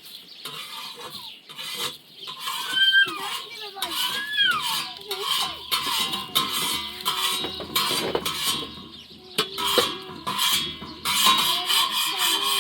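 Clinking and clattering of metal, like dishes or utensils being handled, with chickens clucking now and then.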